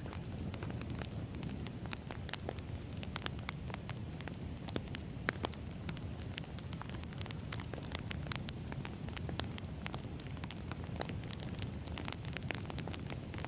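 Burning firewood crackling: a steady low rush of flames with frequent sharp pops and snaps from the logs.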